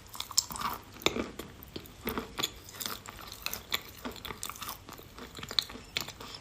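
Close mouth sounds of someone chewing soaked red eating chalk: irregular soft clicks and wet smacks rather than a crunch.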